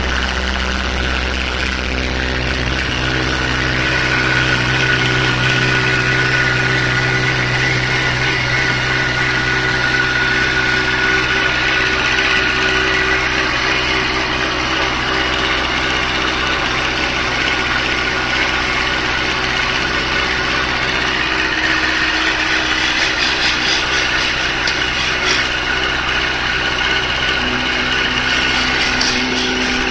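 Honda CB1300 Super Bol d'Or's inline-four engine running steadily at idle, with a slight change in its note about two seconds in. It is being run stationary so the exhaust heat colours the freshly polished header pipes.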